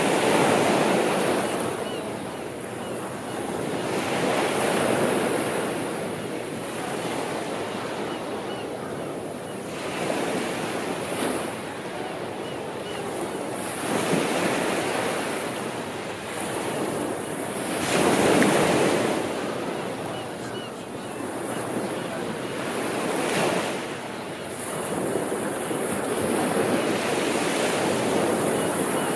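Sea waves breaking and washing up the shore in a steady rhythm, each surge swelling and falling away every four to five seconds. The largest break comes about eighteen seconds in.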